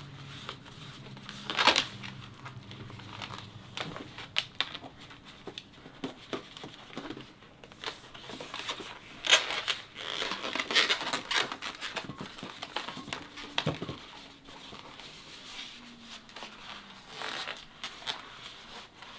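Inflated latex modelling balloons being handled, pinched and twisted, with irregular rubbery rubbing and crinkling strokes. The strokes are loudest about two seconds in and again around nine to eleven seconds in.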